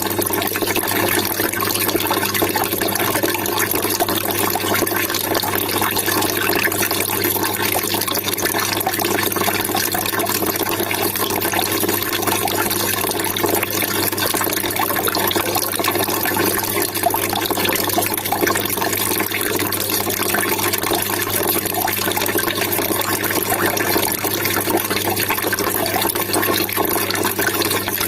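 Trickling, splashing water running steadily without a break.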